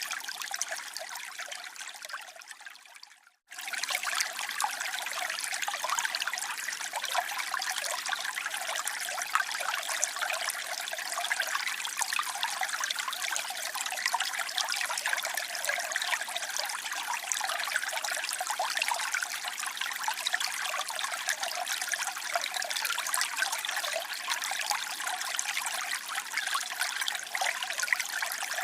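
Steady rush of falling water from a waterfall. About three seconds in it fades away to a moment of silence, then cuts straight back in.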